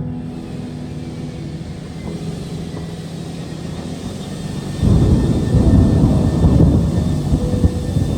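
Steady low hum of a vehicle running. About five seconds in, a louder rough rumble comes in for about three seconds.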